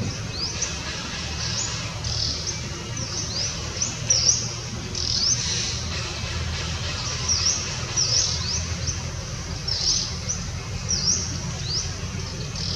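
Bird chirping over and over: short, high, rising chirps at about one to two a second, irregularly spaced, over a steady low rumble.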